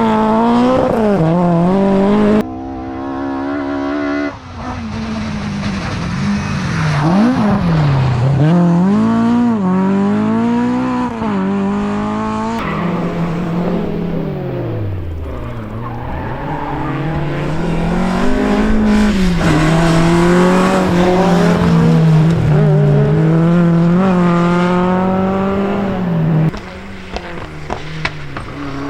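Historic rally car engines revving hard, pitch climbing and dropping with gear changes and lifts off the throttle, several cars in turn with abrupt changes from one to the next.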